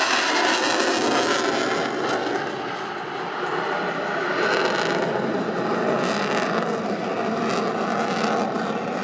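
Sukhoi Su-30MKM fighter's twin jet engines on full afterburner in a hard turn: a loud, steady jet noise, with a few short crackles in the second half.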